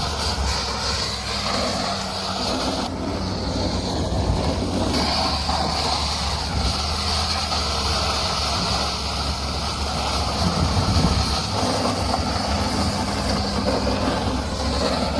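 A vehicle in motion: a steady low engine hum under a continuous rushing, rumbling road noise.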